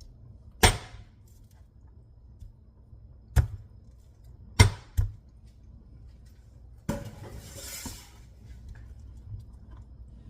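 Kitchen utensil knocks and clatter: four sharp, separate knocks, two of them close together, then about a second of rustling near the end.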